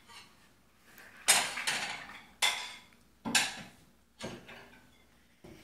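Hard objects clattering as a toddler bangs something: four sharp knocks about a second apart, each ringing briefly, with a few fainter taps before them.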